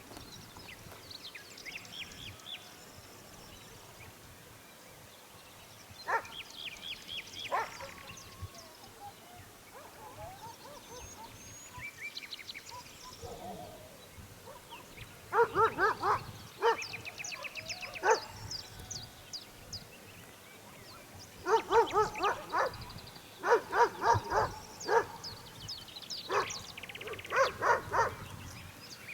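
A dog yipping and whining in clusters of short, high calls, with several bursts in the second half. Birds chirp faintly in the background throughout.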